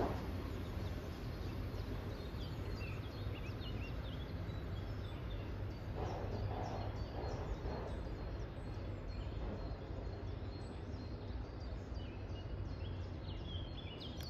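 Songbirds chirping and singing in many short calls over a low, steady rumble.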